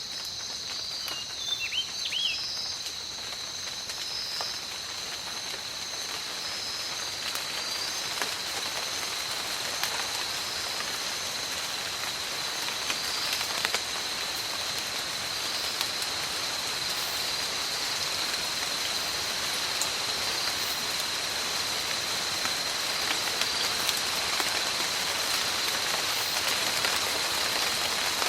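Tropical rain falling steadily, gradually getting heavier, with scattered individual drops. A steady high-pitched tone runs underneath, and a few short chirps sound in the first couple of seconds.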